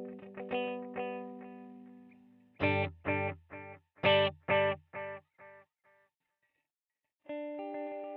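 Electric guitar played through a digital delay pedal: a held chord fades away, then short, loud chord stabs come about every half second and die away in quieter repeats. After about a second of silence, a new chord rings out near the end with quick repeating echoes.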